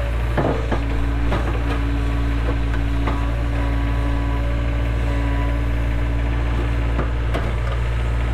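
Cat 307 excavator's diesel engine running steadily, with a few scattered knocks about half a second, a second and a half and seven and a half seconds in.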